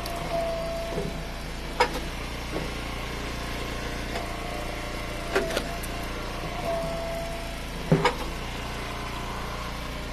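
Eastonmade Ultra hydraulic wood splitter running steadily, its pump whining at intervals as the ram works. Sharp knocks and cracks come from the wood splitting and pieces dropping, the loudest a pair near eight seconds in.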